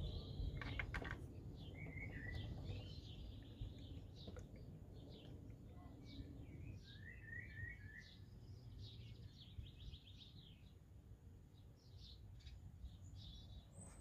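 Small birds chirping and twittering, many short high calls and quick trills throughout, over a faint low rumble that is strongest in the first few seconds.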